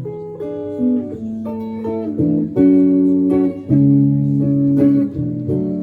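Guitar playing an instrumental passage between sung lines, strumming chords that change about every second.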